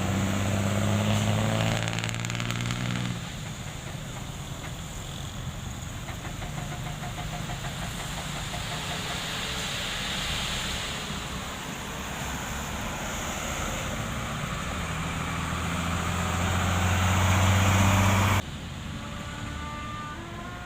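Diesel engines of heavy road-construction machinery running, with a deep engine note that is loud at first, fades, then swells again. The sound drops off suddenly a couple of seconds before the end.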